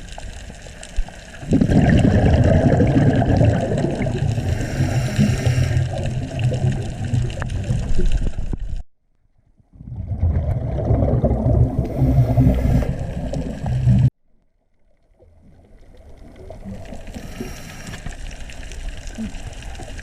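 Scuba diver's regulator breathing underwater: long stretches of loud rushing, bubbling exhaust bubbles with a fainter hiss above them. The sound cuts off suddenly twice.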